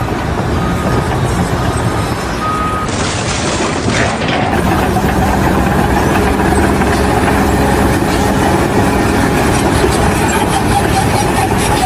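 Heavy vehicle or construction machine engines running, with a reversing alarm beeping at about one beep a second for the first few seconds. The sound changes abruptly about three and four and a half seconds in, and a steadier engine hum takes over.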